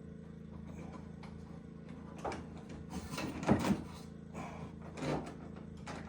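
A series of short knocks and scraping sounds, loudest about three and a half seconds in, over a steady low hum.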